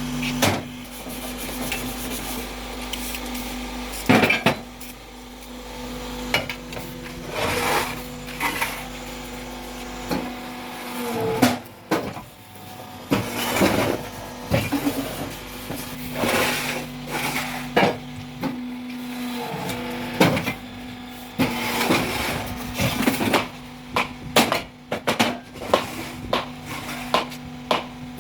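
Concrete block-making machine at work: a steady motor hum that stops and starts again a few times, with repeated clanks and knocks.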